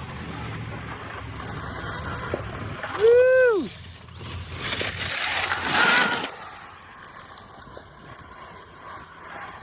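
Arma Mojave EXB brushless RC truck running over rough, rocky dirt: a steady rumble and hiss of motor and tyres, with a loud rush of tyres and flung dirt a little over halfway through. A man whoops once about three seconds in.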